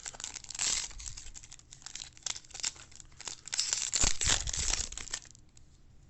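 Trading-card packaging being torn open and crinkled, a dense crackling with a louder rip about a second in and a longer, louder spell of tearing and crinkling around four seconds, then it goes quiet.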